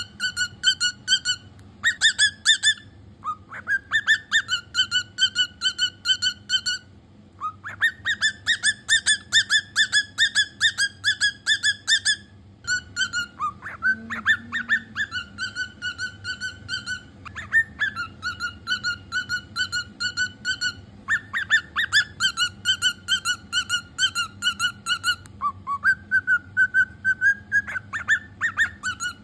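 Cockatiel whistling long runs of quick, evenly repeated high notes, about six a second, with short breaks between the runs.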